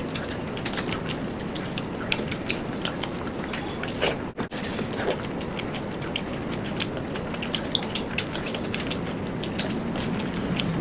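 Close-miked eating: chewing with many small, quick clicks and crunches, over a steady background hiss.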